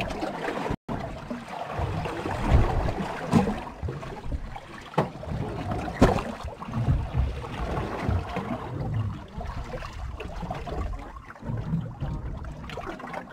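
Wind buffeting the microphone on an open fishing boat at sea, with water sloshing against the hull and a few sharp knocks about two and a half, three and a half, five and six seconds in. The sound cuts out briefly about a second in.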